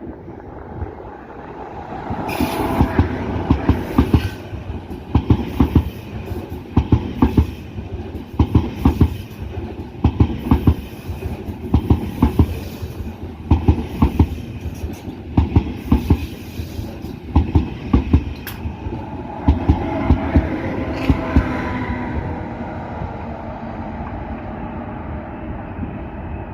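A train rolling past, its wheels clattering over the rail joints and points in a long run of regular paired clacks, then settling into a steadier rumble that eases off near the end.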